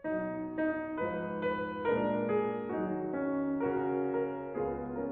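Piano playing a melody over chords, a series of notes changing about every half second; the instrumental introduction of a children's song.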